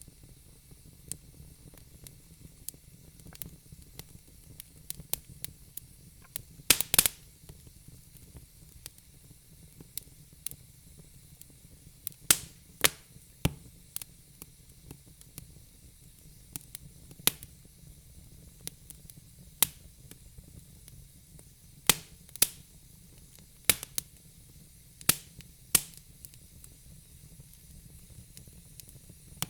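Wood fire burning in a fireplace, crackling and popping at irregular intervals over a faint steady hiss, with a quick cluster of louder pops about seven seconds in.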